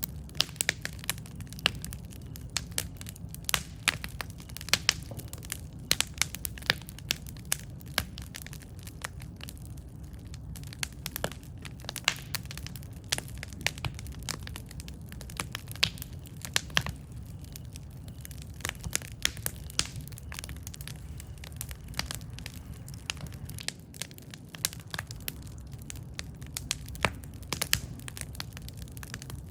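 Wood campfire burning, with a continual run of irregular sharp crackles and pops over a steady low rumble of the flames.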